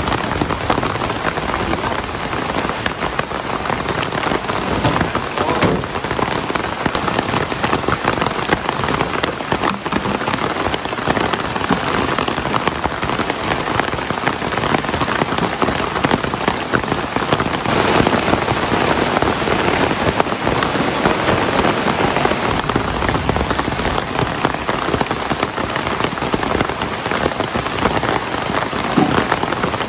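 Heavy rain falling steadily, a dense patter of drops, growing heavier for a few seconds about two-thirds of the way through.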